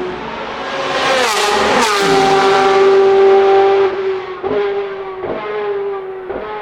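Ferrari 458 Italia GT2 race car's naturally aspirated 4.5-litre V8 at high revs, swelling as the car passes with the note dropping in pitch about a second and a half in. It then holds a loud, steady high note that fades slightly, with a few brief breaks near the end.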